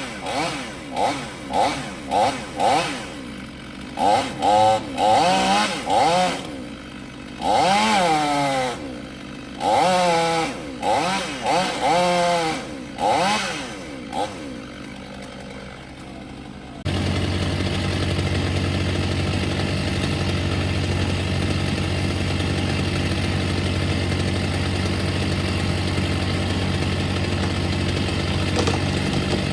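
Chainsaw revved in short bursts, its pitch rising and falling with each blip of the throttle and dropping back to idle in between. A little past halfway it cuts abruptly to a steady, low engine drone.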